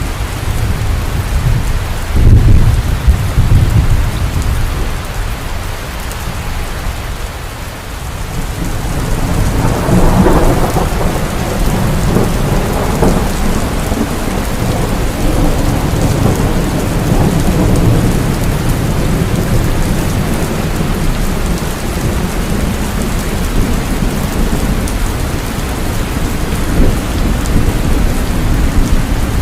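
Heavy rain falling steadily, with thunder: a low rumble about two seconds in, then a longer rolling peal building from about nine seconds and rumbling on through much of the rest.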